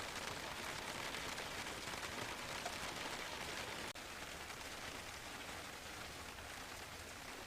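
Steady hiss of light rain falling, even and unbroken, with a brief dip about four seconds in.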